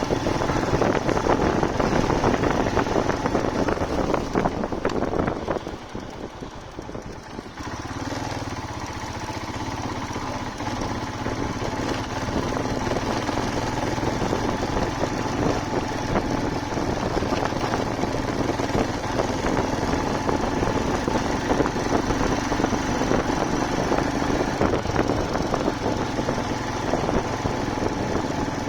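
Royal Enfield Himalayan single-cylinder motorcycle running on the road, with rush of wind and road noise. Its sound drops quieter for about three seconds near the start, then settles back into a steady drone.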